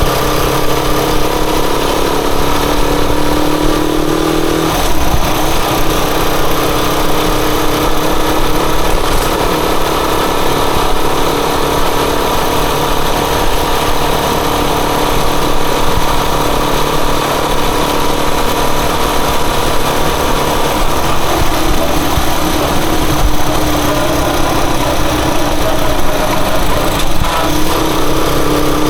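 Rusi Chariot 175 motorcycle engine running on the move, under a steady heavy rush of noise. The engine note drops about five seconds in and changes pitch again a few times later on.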